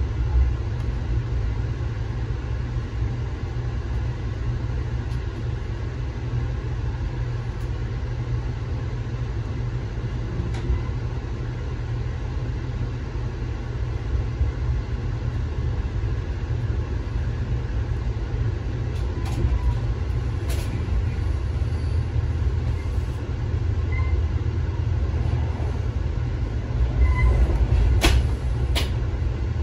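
Amtrak passenger train heard from inside the coach: a steady low rumble of the moving train, picking up speed, with a few sharp clicks about two-thirds of the way in and two louder ones near the end.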